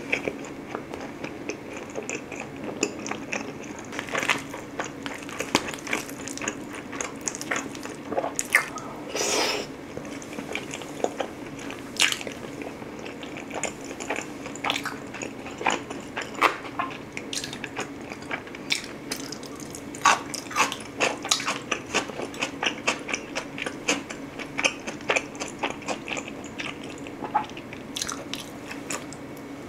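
A person chewing a mouthful of food close to a microphone, with many irregular wet mouth clicks and smacks.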